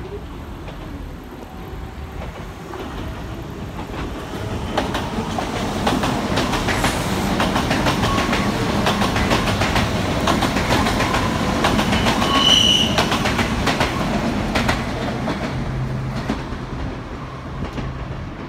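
Kintetsu local electric train passing on an elevated track, its wheels clicking over the rail joints. The sound builds as the train comes close, is loudest mid-pass with a short high tone about twelve seconds in, and fades as it moves away.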